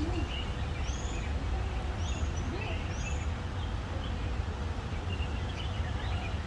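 Wild birds calling and chirping: a short, high, arched call repeats about once a second through the first half, with scattered lower chirps throughout, over a steady low rumble.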